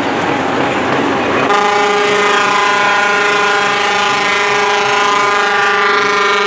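Truck air horn sounding one long, unbroken blast that starts suddenly about a second and a half in, after a stretch of noise.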